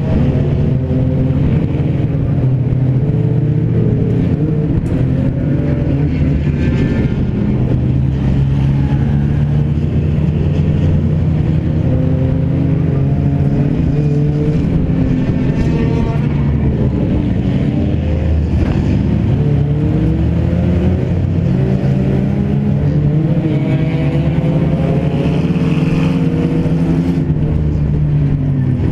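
Car engine running hard under racing load, heard from inside a stripped-out cabin, its pitch rising and falling over and over as the driver accelerates and lifts around the track.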